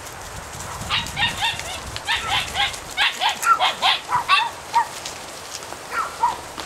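Norrbottenspets puppy yapping: a rapid run of short, high-pitched barks, several a second, from about a second in until nearly five seconds, with two more near the end.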